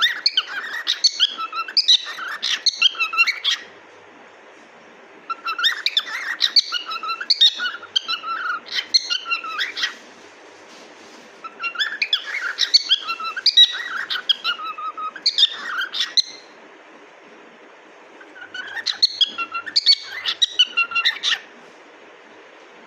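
Pet cockatiel chirping and warbling in four bouts of a few seconds each, separated by short pauses, with another bout starting near the end.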